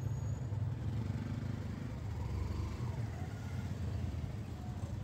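A taxi's engine running with a steady low rumble, heard from inside the car.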